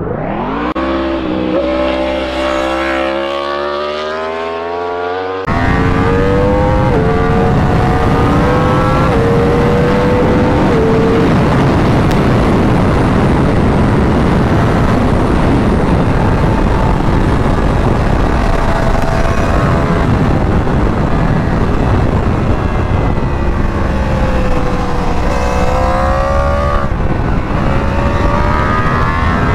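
2021 Yamaha R1's crossplane inline-four through a full Akrapovic exhaust, revving up and climbing steadily in pitch. About five seconds in the sound turns abruptly louder, the engine held at high revs under heavy wind rush. Near the end the pitch drops as the bike slows for a corner, then rises again as it accelerates out.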